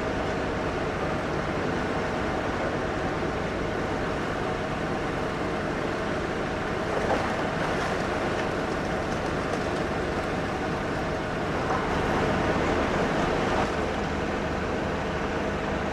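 Demolition machines at work: heavy plant engines running steadily, with louder rough stretches about halfway through and again later as masonry is pulled down.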